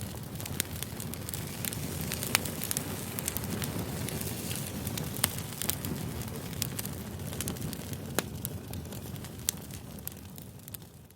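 Campfire burning: a steady low rush of flames with sharp, irregular crackles and pops from the burning wood. The sound fades down near the end.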